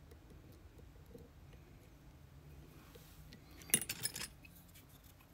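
Lock-picking tools working a pin-tumbler lock: faint ticks of the pick on the pins, then a short cluster of louder metallic clinks and rattles nearly four seconds in.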